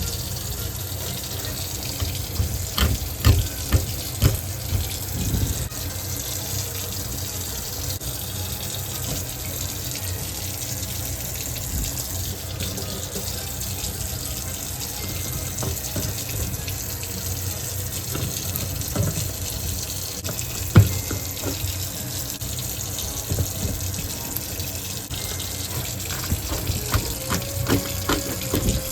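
Water splashing and sloshing steadily, with scattered knocks.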